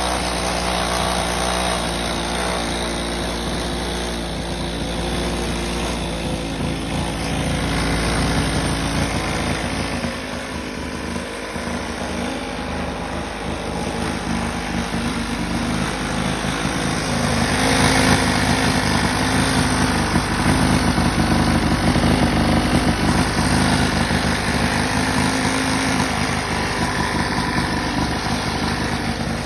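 Small motorbike engine running steadily, getting louder about seventeen seconds in.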